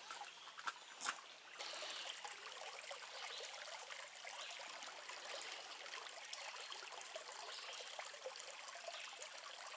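Creek water trickling and babbling in a steady flow, with a couple of small knocks in the first second or so; the water grows louder after about a second and a half.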